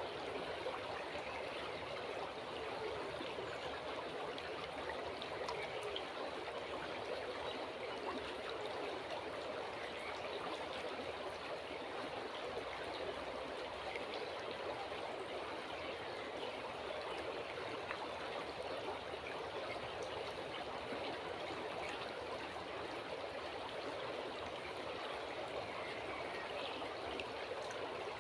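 A stream running steadily, a continuous rushing burble of water.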